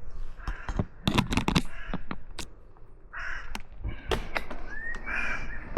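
Crows cawing a few times, mixed with a run of sharp clicks and knocks from handling of the bike or camera, over a low rumble.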